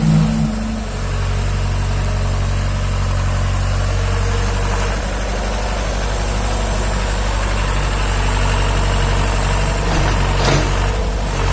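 Excavator engine running steadily at low revs, with a couple of brief knocks near the end.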